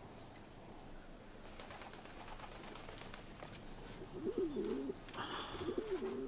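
Two low bird calls over faint background, each a short wavering phrase, about four and five and a half seconds in.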